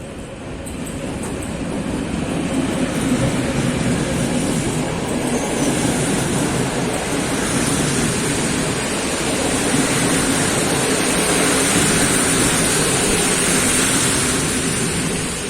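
Passenger train hauled by an EU07 electric locomotive rolling past, its wheel-on-rail noise building over the first couple of seconds, staying loud and easing off near the end.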